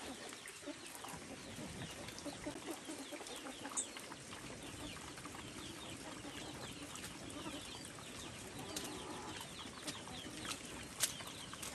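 Chickens clucking in a low, steady chatter of many short calls.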